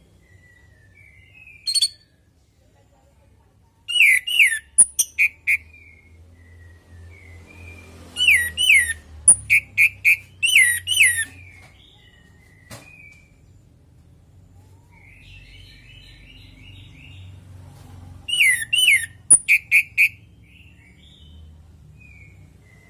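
Orange-headed thrush singing in three loud bursts of quick, sharp chirping phrases, with softer twittering notes between them.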